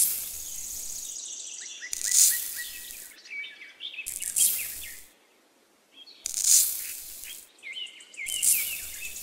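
Fine sand poured from a small toy bucket into a miniature pond basin: about five short hissing pours, roughly two seconds apart. Birds chirp through the pours.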